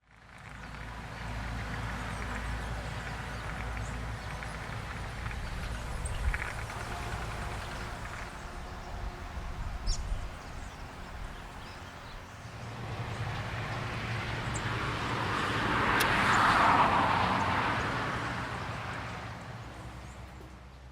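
Outdoor ambience with a steady low rumble and a motor vehicle passing: it swells to its loudest about two-thirds of the way in, then fades.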